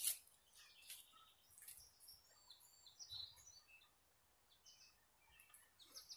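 Faint bird chirps in near silence: a run of short high notes between two and three and a half seconds in, and a few more a little later. A brief rustle comes at the very start.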